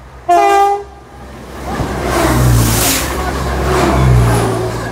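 Passenger train sounding one short horn blast about half a second in, then running past close by at speed. The rumble and rush of its wheels on the rail swell to a peak around three to four seconds in and begin to fade near the end.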